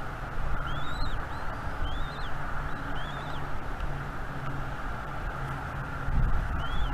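Bald eagle nestlings peeping: short, high, arched chirps, five in all with a long gap in the middle. They sound over a steady rush of wind on the microphone.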